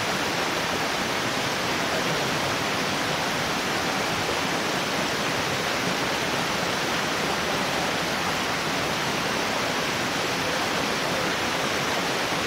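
Steady hiss of falling rain, an even rushing noise that does not change.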